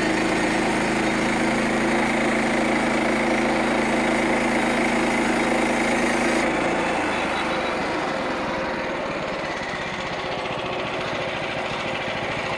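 Small gasoline engine of a portable band sawmill running steadily. About six and a half seconds in, its steady note breaks up into a rougher, lower running, and it gets a little quieter.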